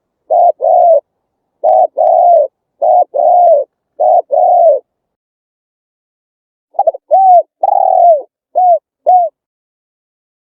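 Spotted dove cooing. Pairs of deep coos come one after another for the first five seconds. After a pause of about two seconds comes a phrase of five coos that rise and fall in pitch, then it stops.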